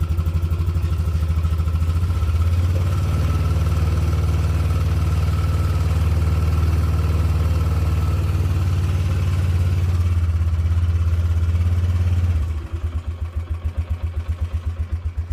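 A quad (ATV) engine running just after a cold start in freezing weather. It holds a steady, raised speed, then about twelve seconds in drops to a slower, uneven, pulsing idle.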